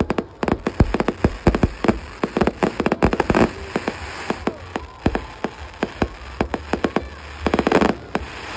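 Fireworks going off in rapid succession: many sharp bangs, several a second, with dense bursts of crackling about three seconds in and again near the end.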